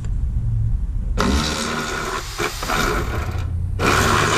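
Power ratchet wrench whirring in two bursts, about a second in and again near the end, backing out an upper control arm bolt.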